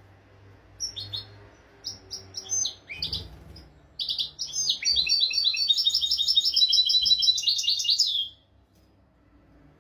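European goldfinch singing: a few separate high chirps, then from about four seconds a rapid run of twittering notes that stops suddenly about eight seconds in.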